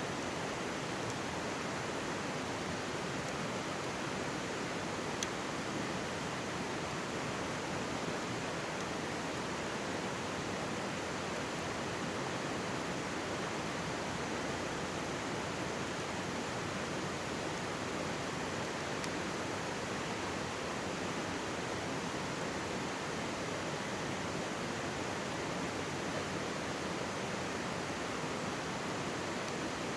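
Mountain stream rushing steadily, with a couple of faint crackles from a wood campfire, about five seconds in and again near the middle.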